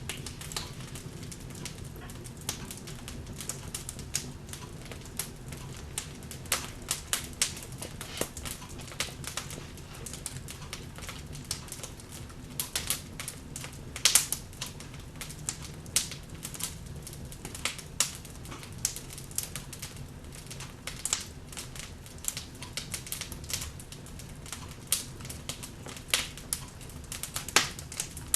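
Log fire burning in a fireplace: irregular crackles and pops over a low steady rumble, with louder pops about fourteen seconds in and near the end.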